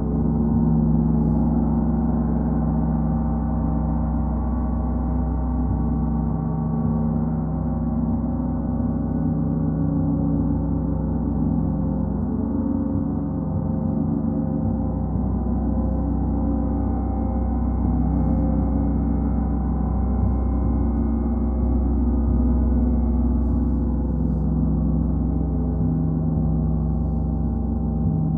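A gong sounding continuously: a steady, sustained wash of many overlapping tones, kept going without distinct separate strikes.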